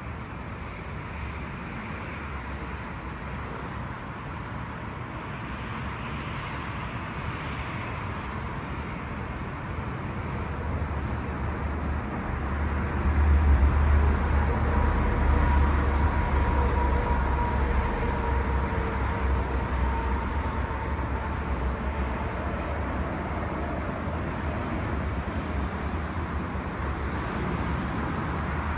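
A motor vehicle's low engine rumble over steady road noise, swelling about halfway through with a faint whine, then slowly fading.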